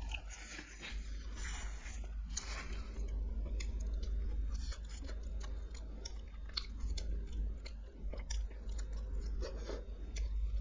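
A person chewing food close to the microphone, with frequent wet mouth clicks and smacks and a few soft crunches. A steady low hum runs underneath.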